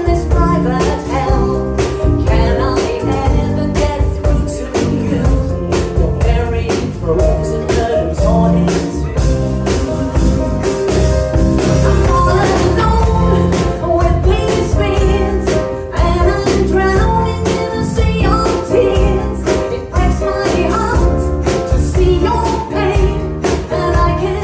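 Band music with a sung vocal over drums and other instruments.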